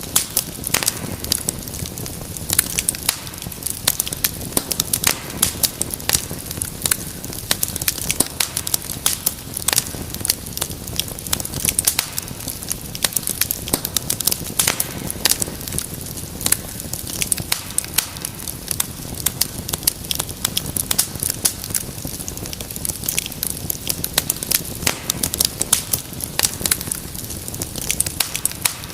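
Wood fire burning in a fireplace, with many quick, irregular pops and crackles over a steady low rush of flame.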